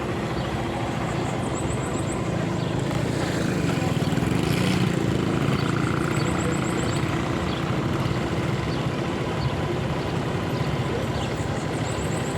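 Motorcycle under way on the road: engine running steadily with road and wind noise, swelling briefly about four to five seconds in.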